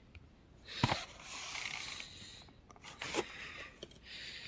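Faint rustling hiss with two sharp clicks, one about a second in and one about three seconds in.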